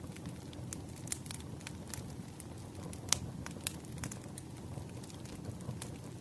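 Burning firewood crackling: irregular sharp pops and snaps over a low, steady rumble of the fire, with the loudest pop about three seconds in.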